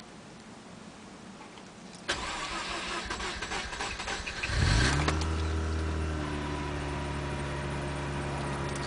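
Mazda RX-8's Renesis twin-rotor engine cranked on the starter with a spinning noise for about two and a half seconds, then catching about four and a half seconds in, flaring briefly and settling into a steady fast idle. The engine is slow to start.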